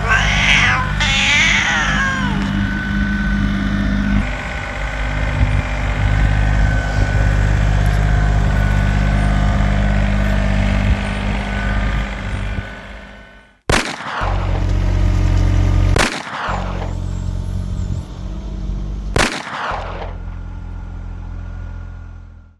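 Kymron XH20D mini-excavator's diesel engine running steadily, heard in several short stretches that break off abruptly near the end.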